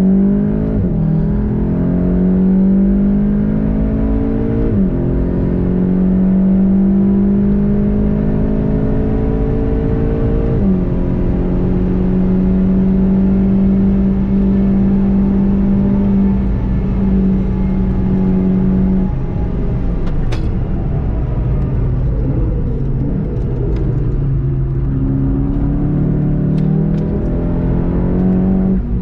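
VW Golf 7.5 GTI TCR's turbocharged 2.0-litre four-cylinder pulling hard through the gears, its pitch rising and dropping at two upshifts, then held steady at high speed. Near the end the engine note falls away as the car lifts off and slows, with a few stepped downshifts, all over steady wind and tyre noise.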